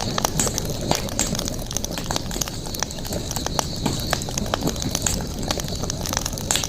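Campfire burning, with irregular sharp crackles and pops over a steady low rumble of flame.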